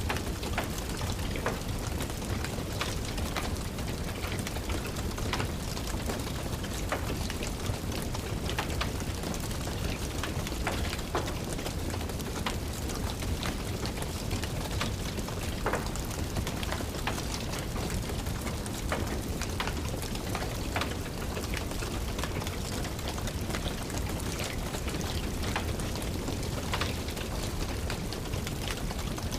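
Steady rain with scattered, irregular sharp crackles and pops from a wood fire burning in a fireplace.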